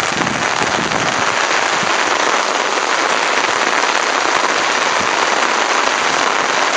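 Heavy typhoon rain falling steadily: a loud, unbroken hiss of dense drops.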